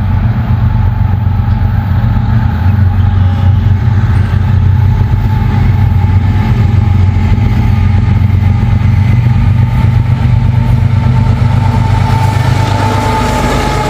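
Diesel locomotives of a freight train running close by, a loud steady low rumble. A faint steady whine grows in over the last few seconds.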